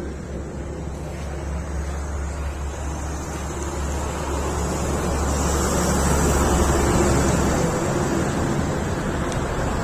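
Tractor diesel engine running with a steady low hum that drops away about eight seconds in. Over it, a rushing noise swells and is loudest around six to seven seconds in.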